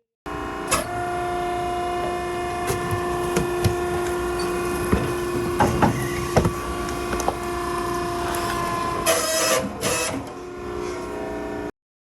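Maren cardboard baler running, its hydraulic pump giving a steady whine, with scattered sharp cracks and snaps as the cardboard is crushed. A rougher, noisier stretch comes about nine seconds in.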